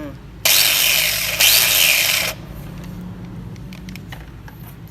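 Two back-to-back bursts of loud, even hissing, about two seconds in all, cutting off suddenly, over a low steady hum.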